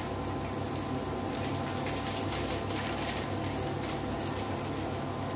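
Tofu pieces sizzling in a pot, a steady hiss with faint crackles, over the steady low hum of an induction cooktop.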